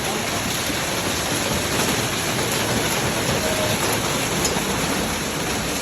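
Heavy rain falling, a steady, even hiss of rain on surfaces.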